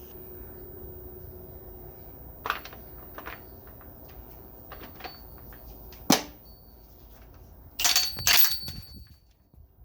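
Metal tools being handled: scattered sharp clicks and knocks, then two short, loud rattling clatters about eight seconds in.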